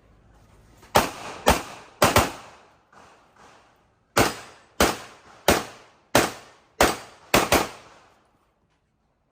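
Pistol shots from a CZ Shadow 2 fired in a competition string: three shots about half a second apart, a short pause with two faint distant pops, then seven more at roughly one and a half shots a second, the last two almost back to back. Each shot is a sharp crack with a short ringing tail.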